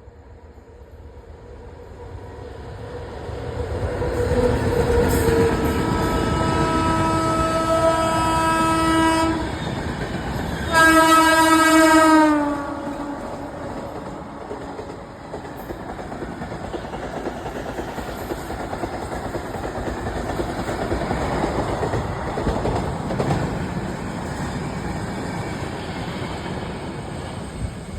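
Locomotive of the 12779 Goa Express passing at speed: rumble building up, then two long horn blasts, the second louder and dropping in pitch as it goes by. After that the coaches run past with a steady rumble and clickety-clack of wheels on rail joints.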